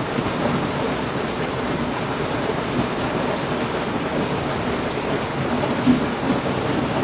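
Heavy rain falling steadily, an even rushing hiss, briefly louder about six seconds in.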